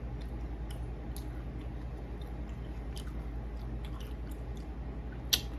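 A person chewing a mouthful of pizza close to the microphone: soft wet mouth clicks and smacks, with one sharp click near the end. A steady low hum runs underneath.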